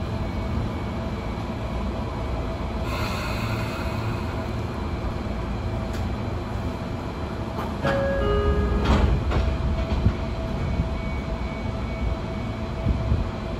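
Cabin of a Sotetsu 8000 series electric train standing at a platform: a steady hum from its equipment. A brief hiss comes about three seconds in, then a short falling two-note tone about eight seconds in and a burst of noise just after.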